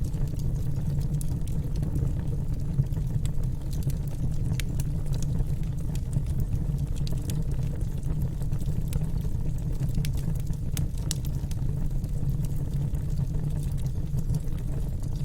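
Wood fire crackling in a fireplace: a steady low rumble of flames with many small, sharp crackles scattered irregularly throughout.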